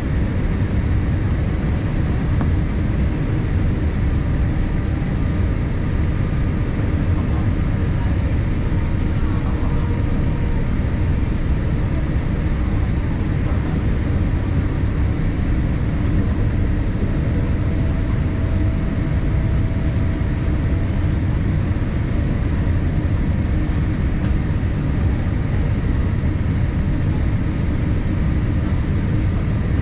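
Steady cabin noise inside a Boeing 787-8 in flight: a constant low rumble of airflow and engines, unchanging throughout.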